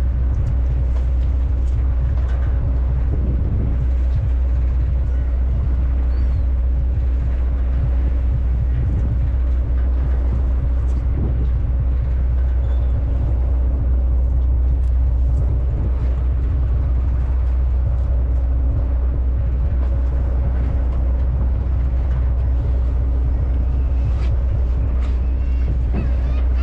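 A bottom trawler's diesel engine running steadily at a constant speed, a deep even drone with a steady hum above it.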